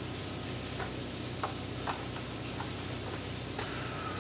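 Sliced steak with diced peppers and onion sizzling steadily in a hot skillet, with about five light clicks and taps scattered through.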